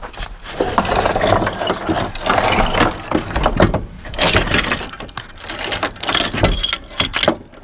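Irregular clanking, knocking and rattling from rigging an engine crane and come-along to lift the engine out.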